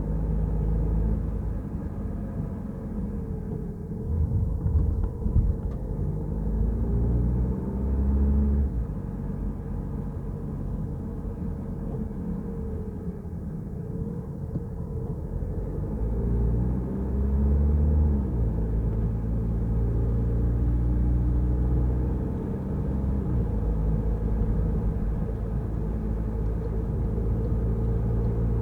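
A car driving on a wet road: steady low engine and road rumble. The engine note climbs and drops back about eight seconds in and again about eighteen seconds in as it changes speed.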